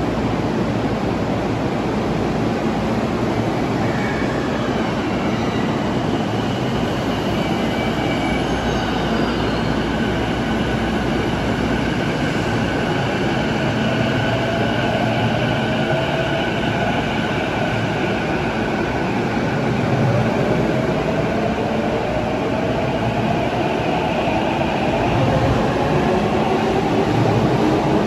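Electric commuter train at an underground platform pulling away: its traction motors give several rising whines in the second half as it speeds up. The sound grows louder near the end.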